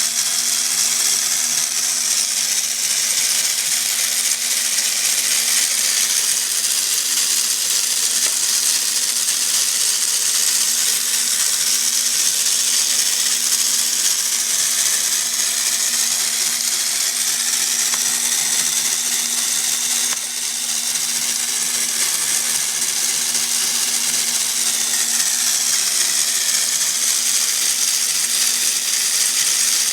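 Lego Technic electric motor driving a plastic gear reduction and chain, a steady whir that keeps a constant pitch throughout.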